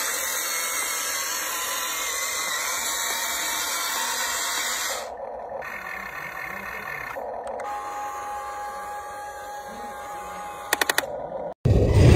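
Electric motor and gearing of an RC truck whirring with a steady hissy whine. The whine drops in level about five seconds in, then a thin steady tone runs for a few seconds, with a quick run of clicks near the end.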